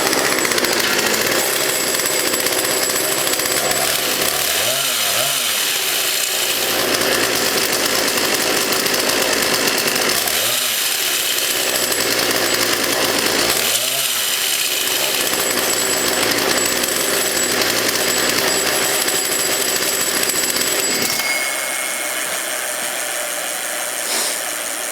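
33cc Poulan two-stroke chainsaw engine driving a homemade motorized bicycle, running hard and continuously with a buzzing note that sweeps and wavers three times. It becomes quieter about 21 seconds in.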